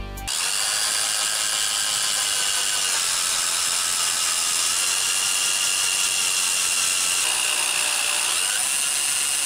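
Small electric power tool motor running steadily with a high whine, its tone shifting slightly about seven seconds in.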